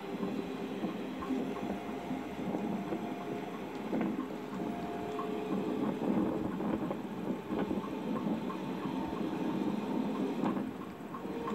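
Passenger train coach running along the track, heard from aboard: a steady rumble of wheels on rails with scattered knocks.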